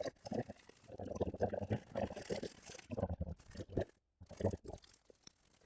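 Footsteps of a person walking on the forest floor: an uneven series of short scuffs, with a brief pause about four seconds in.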